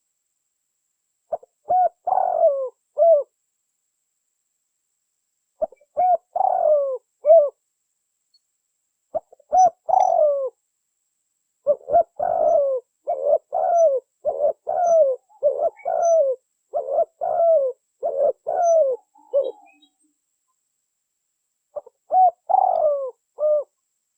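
Spotted dove (tekukur) cooing in short phrases of a few falling notes, with pauses of several seconds between phrases. In the middle the notes come in a long, fast run.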